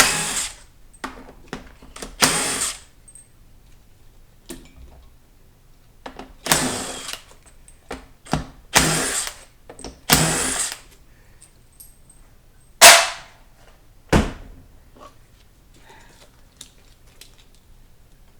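Several short bursts of a power driver spinning out bolts. Near the end come two sharp metal knocks, the first the loudest sound of all, then a few light clicks.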